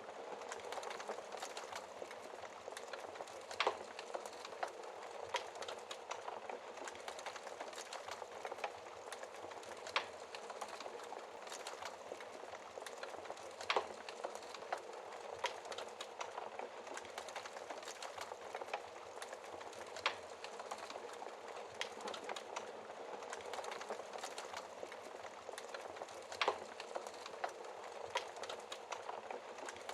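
Wood fire crackling in a fireplace: a steady soft hiss with scattered sharp pops and snaps, about five of them louder than the rest.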